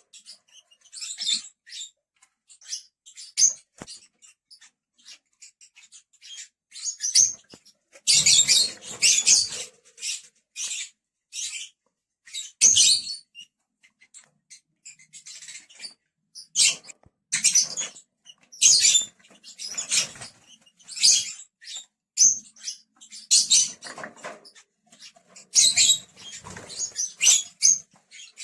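Lovebirds chirping: short, shrill high-pitched calls coming in irregular bursts throughout.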